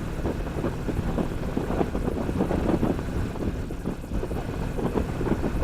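Motorcycle under way: a steady low engine rumble mixed with wind buffeting the microphone.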